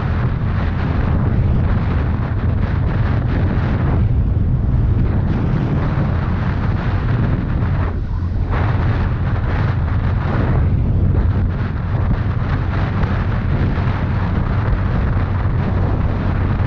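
Bajaj Pulsar N160 motorcycle on the move: its single-cylinder engine running with heavy wind buffeting on the microphone, a steady loud low rumble.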